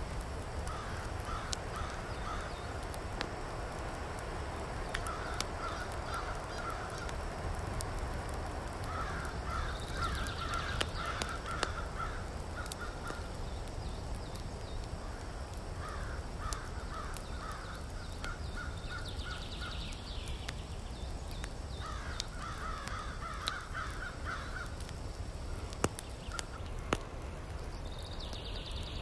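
A bird calls in short series of rapid chattering notes, about five series a few seconds apart. Under it a small twig-stove fire crackles with scattered clicks and a couple of louder pops near the end.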